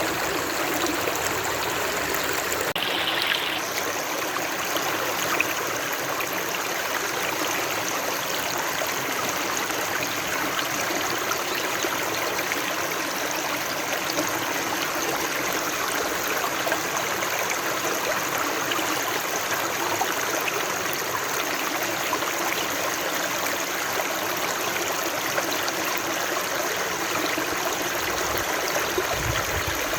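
Flowing water, a steady, even rush with no breaks.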